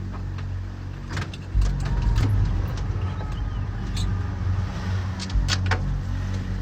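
An engine running steadily with a low hum, with a few sharp clicks and knocks scattered over it.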